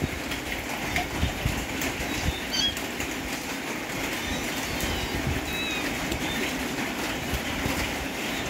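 Steady rain falling, an even rushing noise, with a few faint short high chirps about two and a half and five and a half seconds in.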